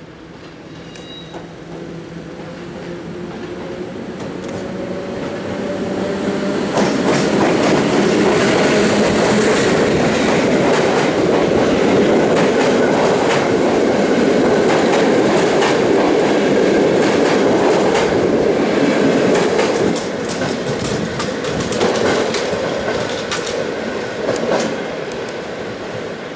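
EP07 electric locomotive hauling a passenger train past the platform. A hum slowly rises in pitch and loudness as it approaches, then the carriages pass with a loud rolling roar and rhythmic clatter of wheels over rail joints. The noise eases a little near the end as the last coaches go by.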